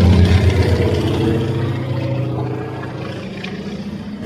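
Aircraft engine passing close by with a steady low drone, loudest at first and slowly fading as it moves away.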